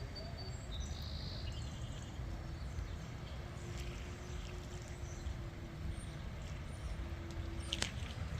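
Low engine rumble with a steady hum that stops suddenly near the end. A few faint high chirps about a second in.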